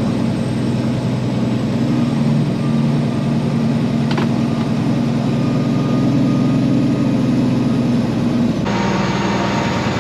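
Peterbilt semi truck's diesel engine running steadily at low speed, its note shifting about nine seconds in, with a single light click about four seconds in.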